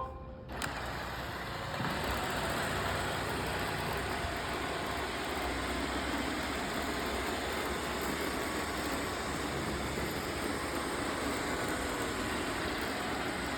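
Roomba robot vacuum running: a steady whir that starts with a click just after the opening and grows louder about two seconds in, then holds steady.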